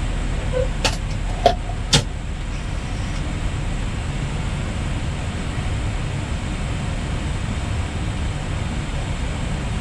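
Steady rushing cabin noise on an Airbus A320neo flight deck in flight, with three short sharp clicks in the first two seconds.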